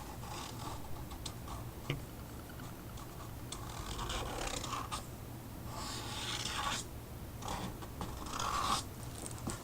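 Marker tip scratching and rubbing over a chipboard cutout in short strokes, with longer, louder passes about four to seven seconds in and again near the end.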